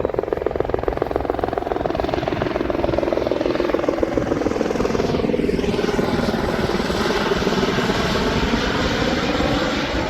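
Aerobatic display helicopter in flight: its rotor chops in rapid, steady beats, and the engine note slowly falls in pitch over the first several seconds.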